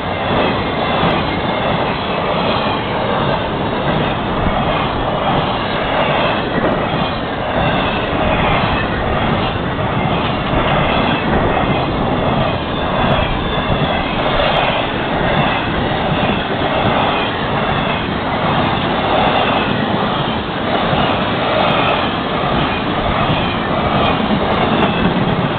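A freight train of flatcars rolling through a grade crossing: the steady, loud rolling noise of steel wheels on the rails as the cars pass.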